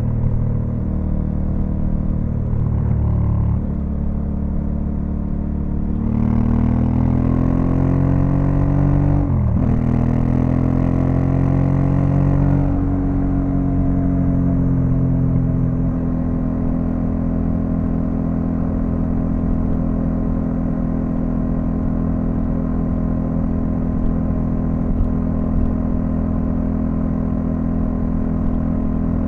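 2022 Honda Africa Twin CRF1100L's parallel-twin engine under way. It pulls up in pitch from about six seconds in, with a sudden dip and recovery near the middle, then eases off and settles to a steady lower note.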